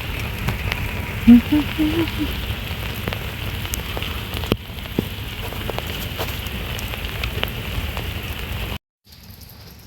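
Outdoor winter-storm ambience: a steady patter of precipitation with scattered light ticks, over a low wind rumble on the microphone. It cuts off abruptly near the end.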